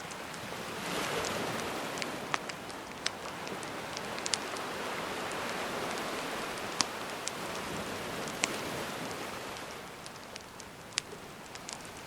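Gentle sea wave washing up and drawing back, swelling about a second in and ebbing near the end, with a campfire crackling in sharp scattered pops over it.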